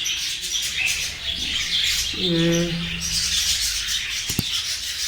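A colony of budgerigars chirping and chattering continuously, with a short hum from a man's voice a little after two seconds in and a single sharp click near the end.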